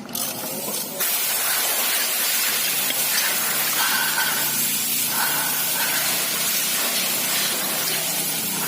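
Compressed-air blow gun hissing in a steady jet. It starts suddenly about a second in and does not let up.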